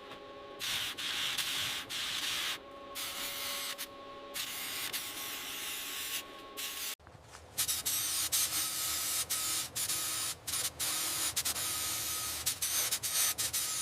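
Hissing, rubbing noise from restoration work, in stretches of one to two seconds that start and stop, with a short break about halfway and a choppier hiss after it.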